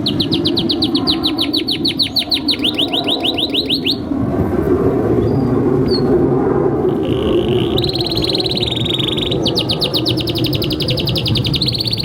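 A male domestic canary sings a long run of fast, repeated down-slurred notes for about four seconds. After a pause of about three seconds it goes into a buzzy trill, then another rapid run of down-slurred notes, all over a steady low background noise.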